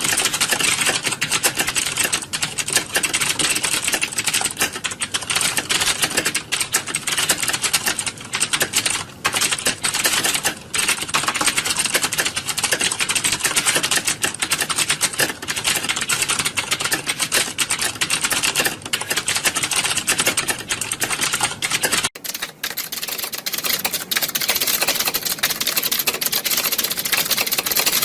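Many computer keyboards being typed on at once, a dense, continuous clatter of key clicks like a typing exam hall. About 22 seconds in the sound changes abruptly: the low end drops out and the clatter turns thinner and brighter.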